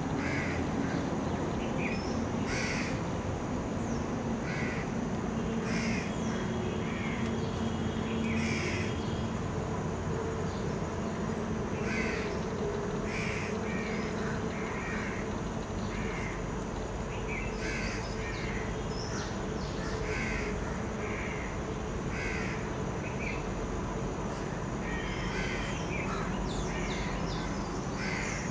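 Birds calling, short calls every second or so, over a steady low background hum.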